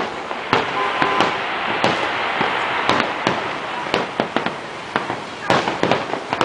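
Fireworks display: sharp bangs of shells bursting about every half second, over a continuous crackling hiss.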